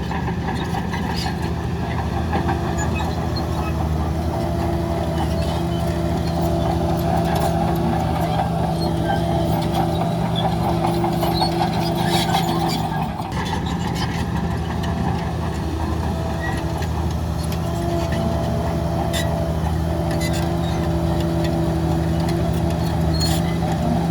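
Heavy earthmoving machine's diesel engine running steadily under load, with scattered metallic clinks and a brief dip in level about halfway through.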